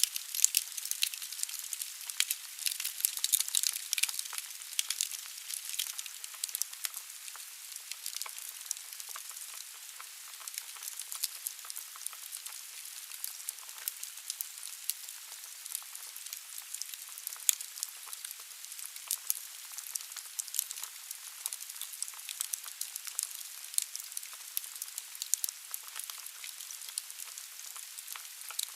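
Wood fire crackling in a fireplace: a steady hiss dotted with many irregular pops and snaps, louder and more frequent in the first few seconds.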